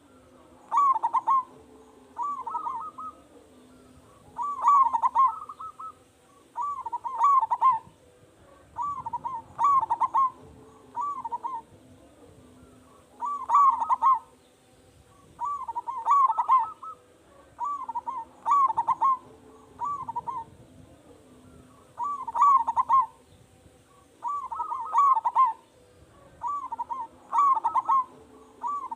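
Zebra dove (perkutut) cooing its song over and over: short phrases of several quick, rolling coos, one phrase every two to three seconds.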